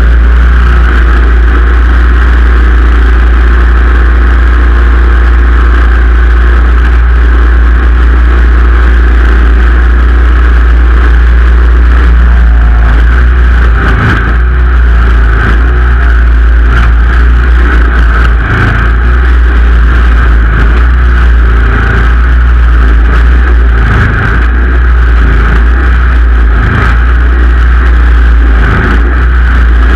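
Simplicity Legacy XL garden tractor's engine running steadily, with a loud, constant low hum that briefly changes a few times in the second half.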